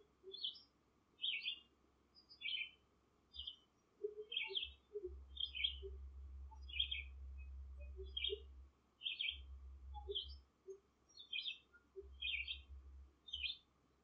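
A bird chirping over and over in short calls, about one a second, with a low rumble underneath in the middle stretch.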